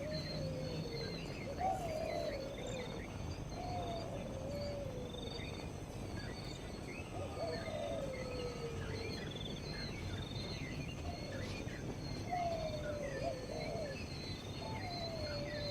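Birds calling: a low whistled call that slides downward, repeated several times, over higher, quicker chirps and a steady high buzzing tone.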